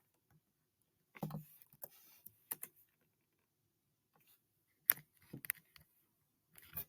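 Quiet small room with a few faint, scattered clicks and rustles, like small objects being handled.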